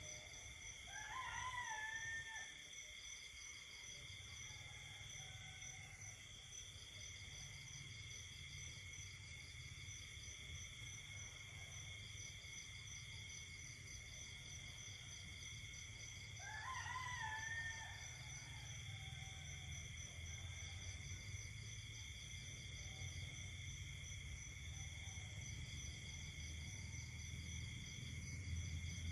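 Night chorus of insects: several steady high-pitched trills, one of them pulsing in even beats. A louder wavering call sounds twice, about fifteen seconds apart, over the chorus.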